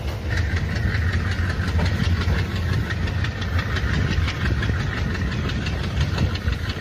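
Passenger train running as it pulls out of a station: a steady low rumble with a rapid, even clicking of about four or five beats a second and a higher rasping noise that sets in just after the start.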